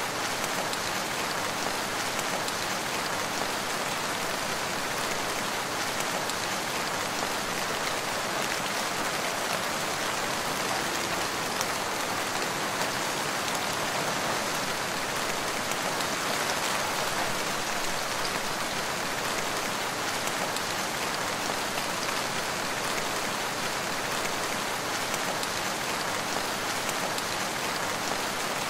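Steady rain falling on a forest, an even hiss of many small drops with no pauses or change in strength.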